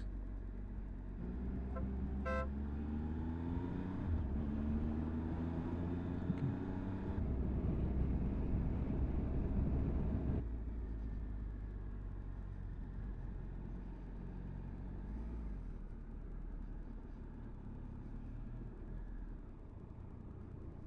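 Motorcycle engine pulling through the revs, its pitch rising over several seconds, with wind rush on the action-camera microphone. The throttle eases off about ten seconds in, and the bike runs on at a lower, steadier level.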